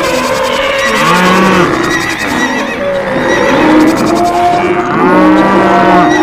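A mix of farm animal calls, with two long arching calls about a second in and near five seconds in, over background music with sustained notes.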